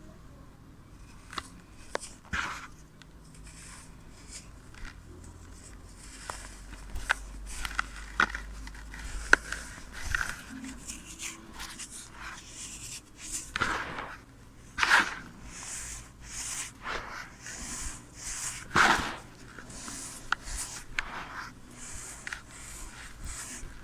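Moulded block of dry clear sand being crumbled, giving scattered crisp crunches and crackles, sparse at first and with several louder crunches in the second half.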